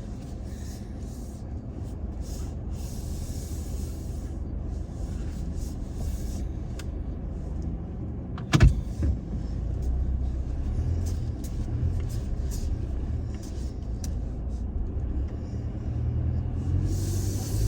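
Toyota Tacoma pickup running slowly on a dirt track, a steady low engine and road rumble, with one sharp knock about halfway through as the truck jolts; the engine rumble grows louder in the second half.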